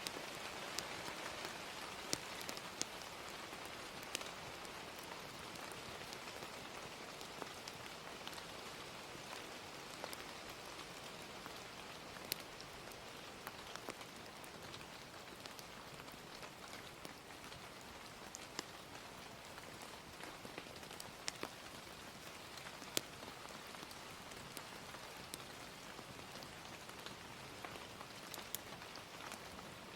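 Gentle, steady rain, with scattered sharp pops and crackles of a wood fire.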